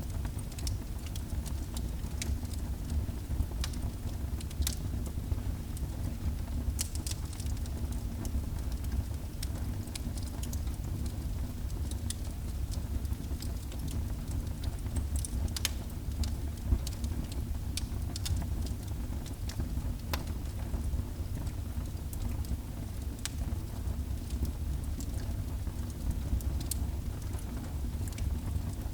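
Wood fire burning in a fireplace: a steady low rumble of flames with scattered, irregular sharp crackles and pops, a couple of them louder than the rest.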